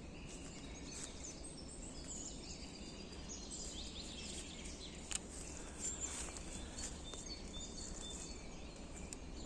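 Several songbirds singing faintly in many different voices, short chirps and whistled phrases scattered over steady low background noise. A brief click about five seconds in.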